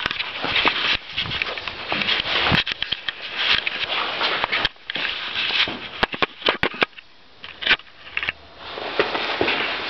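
Irregular scuffing and rustling with many sharp clicks and knocks, with the engine of the 2008 Baja 125 dirt bike not yet running, while it is being readied and tried for a start after months of sitting.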